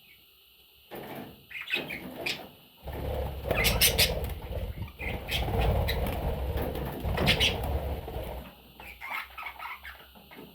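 Pet budgerigars chirping in short high calls, with a stretch of noisy rustling, like fluttering wings, through the middle.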